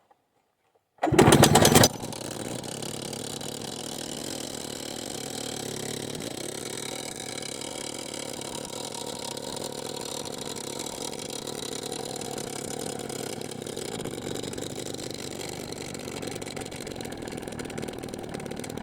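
YN27 petrol rock drill's two-stroke engine starting about a second in with a short, loud burst, then running steadily.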